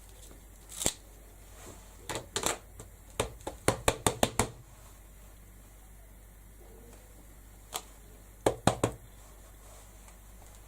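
Sharp hard taps of a rubber stamp being dabbed onto an Archival ink pad and pressed down, in short bursts, with a quick run of about seven taps in just over a second near the middle and three more close together near the end.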